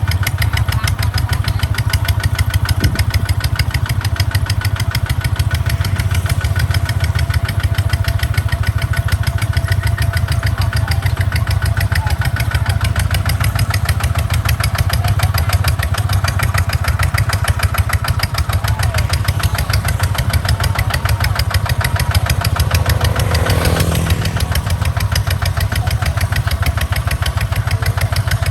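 Kubota tractor's diesel engine running steadily with a fast, even firing beat.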